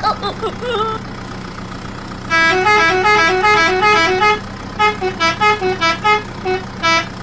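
A musical horn playing a fast two-note tune over and over in short phrases, starting about two seconds in.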